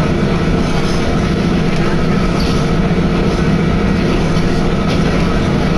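Inside a Tenryu Hamanako Railway diesel railcar under way: the engine's steady drone over the rumble of wheels on the rails.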